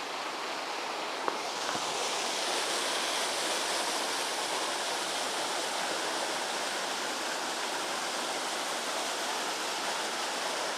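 Steady rushing noise like running water, with one faint click a little over a second in.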